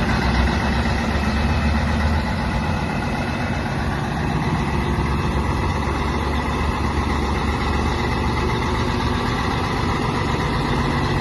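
Scania 113 360 truck's 11-litre inline-six turbodiesel idling steadily.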